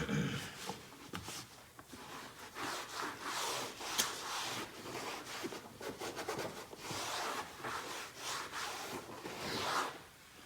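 A towel being rubbed and wiped over a dirty panel in a series of irregular strokes, with a single sharp tick about four seconds in.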